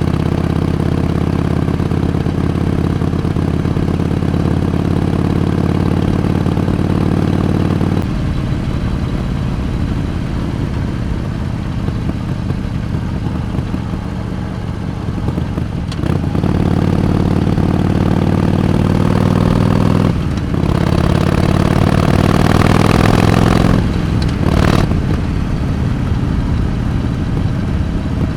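Harley-Davidson Iron 883's air-cooled 883 cc V-twin running under way. It holds a steady speed at first, then rolls off and back on. About two-thirds of the way through it climbs steadily in pitch under acceleration, with short breaks in the sound at the gear changes, then settles back to a steady run.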